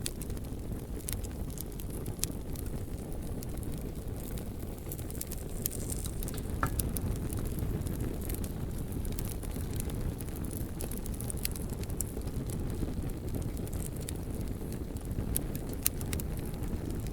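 Bonfire of burning logs: a steady low rumble of flames with irregular sharp crackles and pops scattered throughout.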